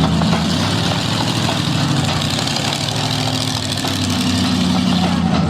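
Monster truck engine idling with a deep, steady note.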